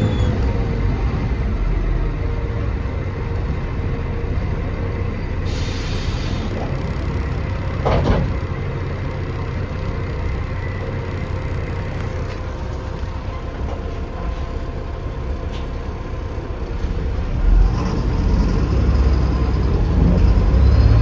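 Bus diesel engine running with a steady low rumble. About six seconds in there is a short hiss of air, and a clunk follows about two seconds later. Near the end the engine picks up again and the turbo whistle starts to rise.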